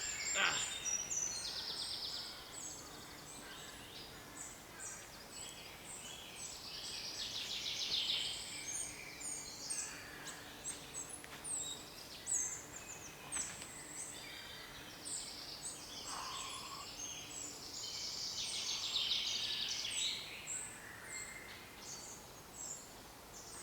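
Woodland songbirds in a morning dawn chorus, many overlapping chirps, whistles and rapid high trills, with louder trilled songs about one, seven and eighteen seconds in.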